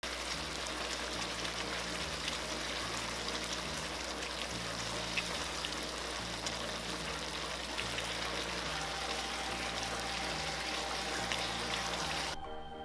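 Sauce-coated fried chicken sizzling in a hot pan as it is stirred with a wooden spatula: a steady crackling hiss that cuts off just before the end.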